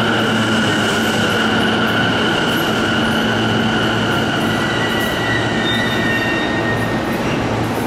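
JR Keiyo Line electric train moving along the platform: a steady rolling rumble with high, steady tones over it that fade about halfway through, and another high tone comes in later.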